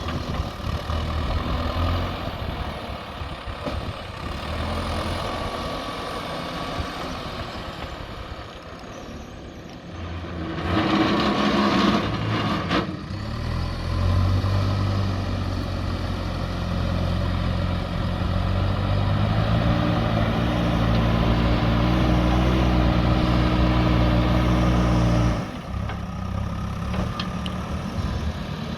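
JCB 3DX backhoe loader's diesel engine working. A burst of hiss and rattle comes about eleven seconds in; then the engine revs up and holds steady under load before dropping back suddenly near the end.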